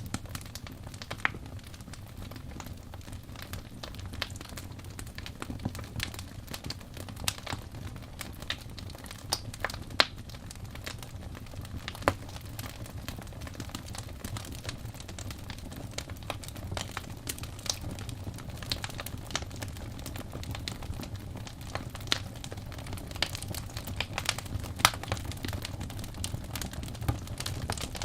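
Wood fire crackling in a fireplace: a low steady rumble of the flames with frequent sharp, irregular pops and snaps.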